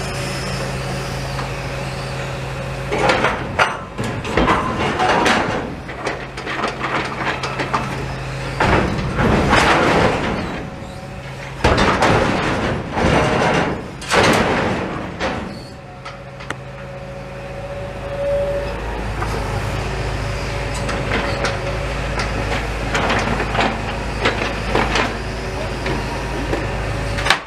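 A heavy engine running steadily, with clusters of knocks and clattering and several loud surges between about three and fifteen seconds in, and more knocks near the end.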